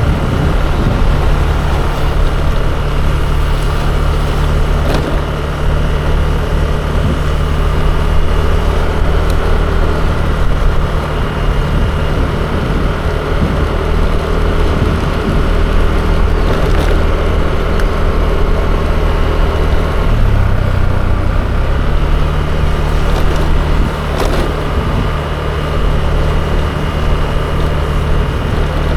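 Yamaha Aerox 155 scooter's single-cylinder engine running steadily on the move, its pitch shifting briefly about twenty seconds in.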